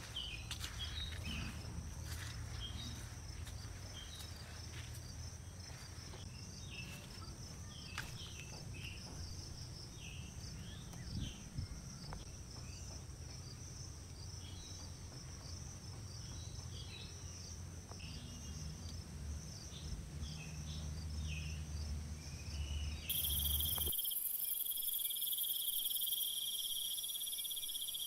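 Insects chirping and trilling steadily, with many short high chirps over a low rumble. About four-fifths of the way through the sound cuts abruptly to a louder, steady high insect drone with several held tones.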